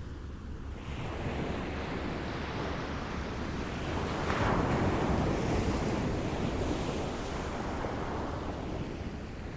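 Small waves lapping at the shore, one swelling in about four seconds in and washing back out.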